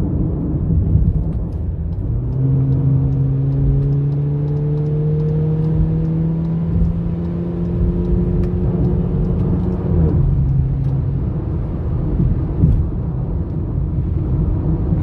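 Volkswagen Jetta 1.4 turbo engine under acceleration, heard from inside the cabin over steady road and tyre noise. Its note climbs slowly for several seconds, then falls away about ten seconds in as the car stops pulling.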